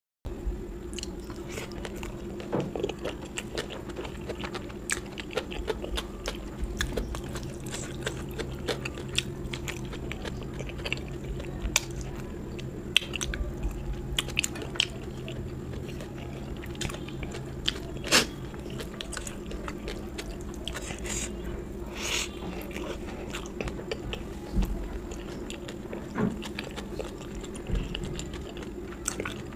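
Close-miked eating: chewing and biting with many small wet mouth clicks and occasional crunches, over a steady low hum.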